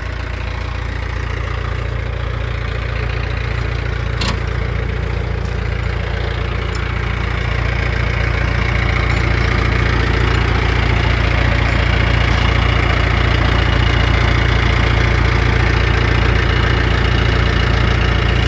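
The diesel engine of a 2008 Mahindra 6025 60 hp tractor running steadily and gradually getting louder, with a single brief click about four seconds in.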